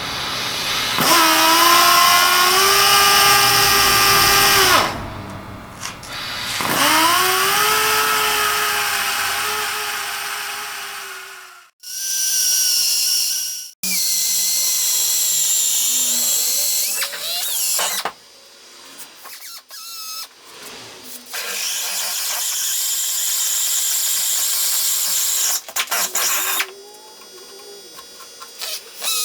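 A handheld power tool's motor run in several bursts. The first two bursts whine up in pitch as the motor spins up and then hold steady for a few seconds each. Later bursts are noisier and scraping, with a few clicks between them.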